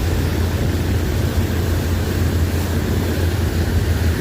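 A boat engine running steadily: a low, even drone under a constant rushing noise.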